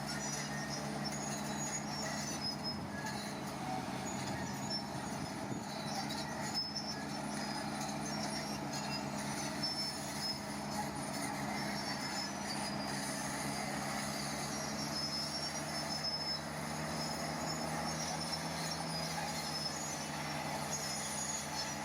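Heavy diesel construction machine engine running steadily, a constant drone that does not rev up or down.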